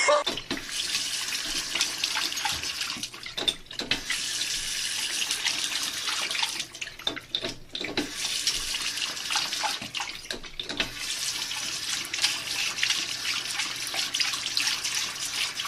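Tap water running into a sink in a steady stream, with a few brief breaks in the flow.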